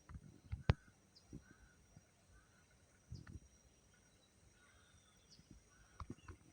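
Quiet outdoor ambience: a few soft thumps and one sharp click near the start, with faint short chirps about once a second.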